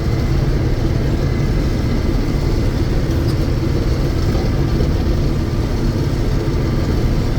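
John Deere 6620 Turbo combine running steadily while harvesting soybeans, its diesel engine and threshing machinery making a steady low drone.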